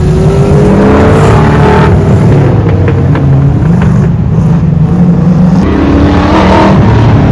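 A car engine running hard on an autocross course, revving up under acceleration with its pitch climbing, easing off, then climbing again near the end.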